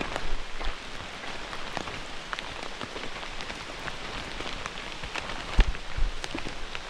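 Steady rain falling, with many individual drops ticking close by and a few short low thumps, the strongest about five and a half seconds in.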